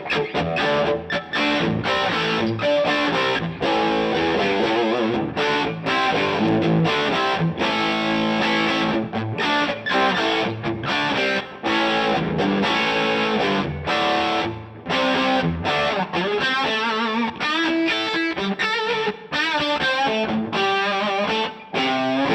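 Electric guitar played through a DVII guitar amplifier with a distorted tone: a busy lead line of quick picked notes broken by short gaps, with bent and vibrato notes wavering in pitch in the second half.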